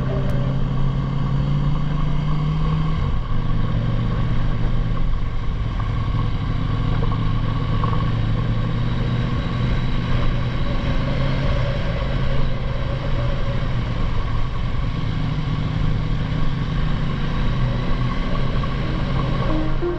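Motorcycle engine running at road speed under a dense rushing noise. Its note drops about three seconds in and rises again about fifteen seconds in.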